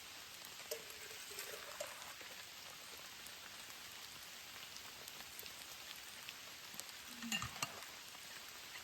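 Steady rain falling, a continuous hiss with scattered sharp ticks of drops. There is a short cluster of clicks and a brief falling low sound about seven seconds in.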